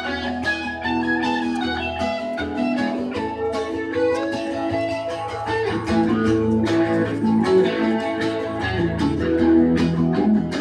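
Instrumental break of a country song, with guitar playing the lead over a bass line and no singing.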